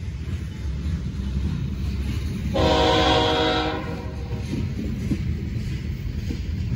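CSX freight train's open-top hopper cars rolling past with a steady low rumble of wheels on rail. About two and a half seconds in, the locomotive's multi-chime horn sounds one blast of about a second, the loudest sound here.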